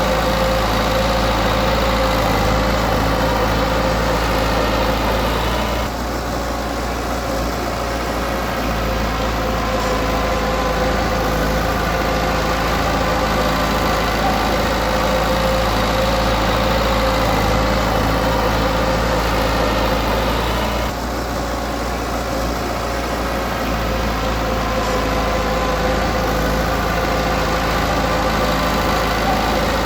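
Diesel engine of heavy earthmoving machinery running steadily. It eases off briefly twice, about six seconds in and again about twenty-one seconds in.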